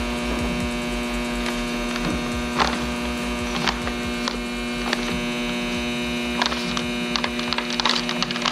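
A steady electrical-sounding hum with a rapid low throb beneath it and scattered faint clicks.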